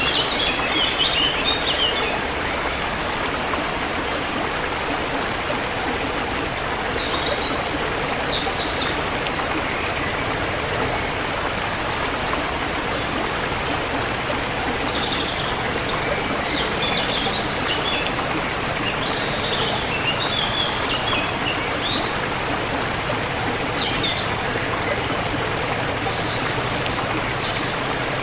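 Steady rushing and trickling of a forest stream, with songbirds chirping in short scattered bursts over it, busiest in the second half.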